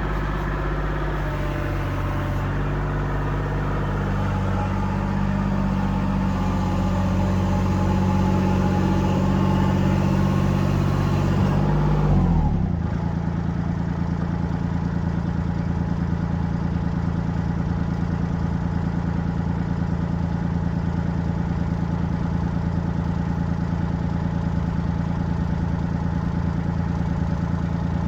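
Kubota L2501 compact tractor's diesel engine running busily at higher revs, then about twelve seconds in dropping abruptly to a steady idle.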